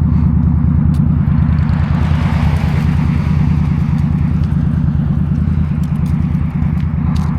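2022 Indian Scout Bobber's 1133 cc liquid-cooled V-twin engine running at a steady, unchanging pitch, with a swell of rushing noise about two to three seconds in.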